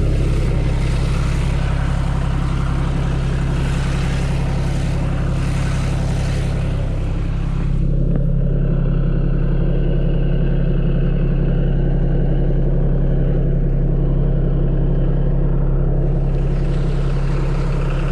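Tractor engine running steadily. Its note shifts slightly about seven to eight seconds in, and a brighter rushing noise above it drops away there and comes back near the end.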